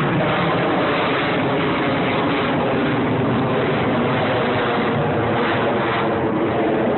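Jet noise from an F/A-18 Hornet's twin jet engines during its display: a loud, steady roar with no break, heard under power as the jet flies an Immelmann.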